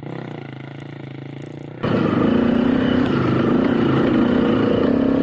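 Motorcycle engine running steadily at low revs, then about two seconds in it suddenly gets much louder and runs on under throttle, its pitch wavering as it pulls away.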